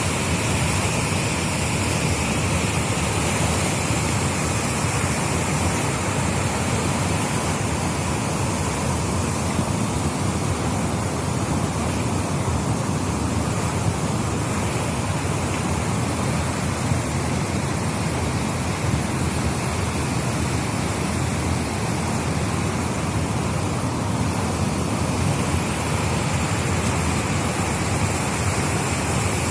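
Floodwater rushing into the sea along with the surf: a loud, steady rush of water.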